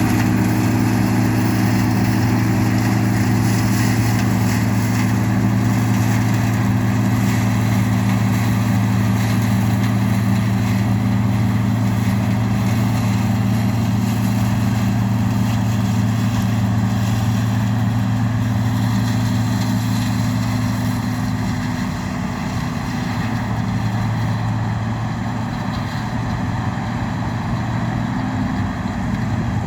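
Engine of harvest machinery running steadily at a constant speed, a loud low drone that eases slightly about two-thirds of the way through.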